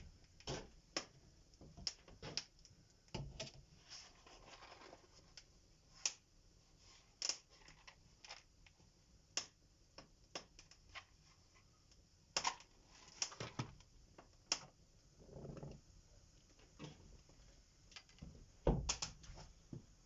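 Irregular light clicks and knocks, scattered a second or two apart, with brief soft rustling twice and the heaviest knock near the end.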